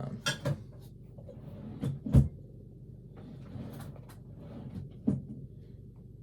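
Objects being handled and set down on a desk: a few short clicks and knocks, the loudest about two seconds in and another about five seconds in, with faint rustling between.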